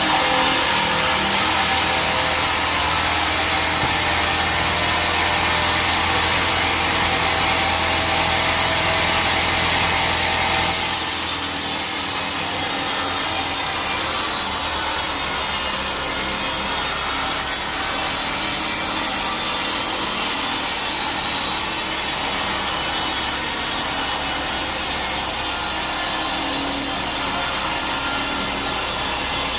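Sawmill bandsaw blade cutting through teak wood: a steady, continuous rasping saw noise over a low machine hum. The sound changes abruptly about eleven seconds in.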